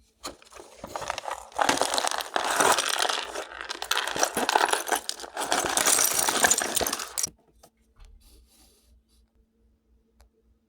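Lego set packaging and plastic pieces being handled: a dense rattling, crinkling clatter lasting about seven seconds, then only a few faint ticks.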